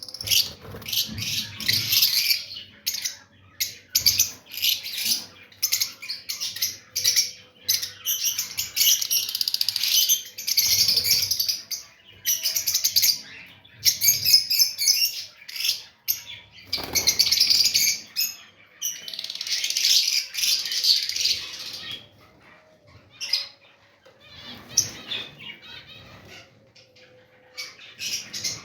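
Many small birds chirping and chattering together in dense, high bursts, thinning out over the last several seconds.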